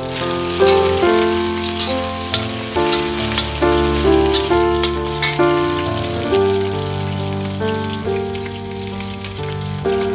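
Piano background music over a steady sizzle with small pops: pork frying in oil in a wok.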